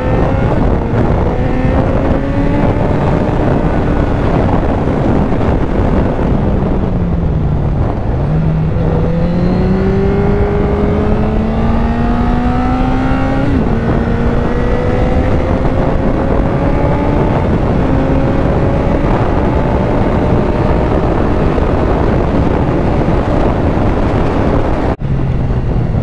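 Honda Fireblade's inline-four engine heard from on board while riding. Its pitch slides down to a low point about eight seconds in, then climbs steadily under acceleration, with a short break at a gear change a few seconds later before it rises again. Steady wind rush runs over the microphone throughout.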